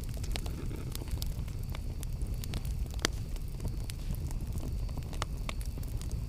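Campfire burning: a steady low rumble of flames with irregular sharp crackles and pops of burning wood, one louder pop about three seconds in.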